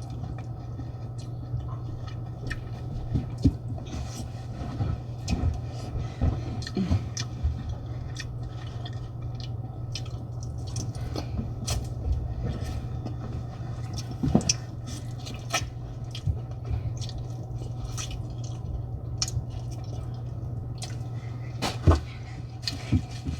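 Close-up eating sounds of a seafood boil: scattered wet chewing, lip smacks and squelches of sauce-covered shellfish being handled, over a steady low hum.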